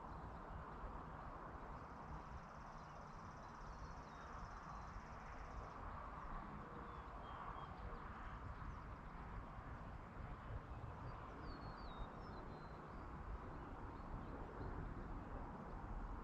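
Faint countryside evening ambience: a steady low rumble, with a few short bird chirps scattered through and a thin high trill lasting about four seconds near the start.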